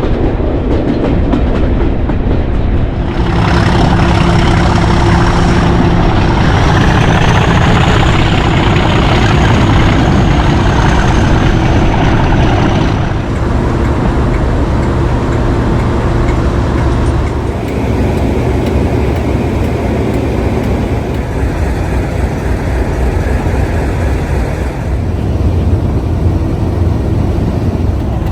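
Class 37 diesel locomotive D6700's English Electric V12 engine working steadily as the train runs. Its sound changes character a few times, with a faint high whine over the first half.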